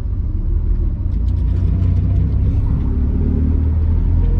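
Manual-transmission truck engine heard from inside the cab as it pulls in gear, a low rumble that grows steadily louder.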